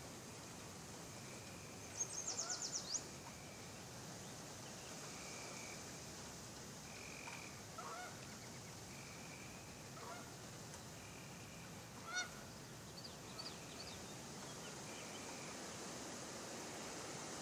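Birds calling outdoors over a steady hiss: a quick high trill about two seconds in, the loudest sound, then short whistled notes repeating every second or two and a few lower, falling chirps.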